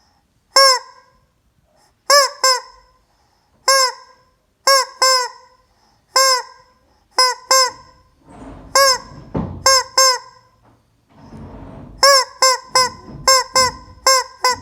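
Rubber screaming chicken toy squeezed again and again, giving short, identical honking squawks, singly and in quick runs of two or three. A fast run of squawks comes in the last few seconds, and between about 8 and 11 s a rough rushing noise lies under them.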